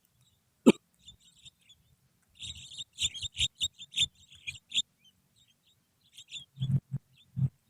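Finger-whistled imitation of oriental magpie-robin (kacer) song: a short sharp note, then a quick run of soft, high chirping notes. A few low thuds come near the end.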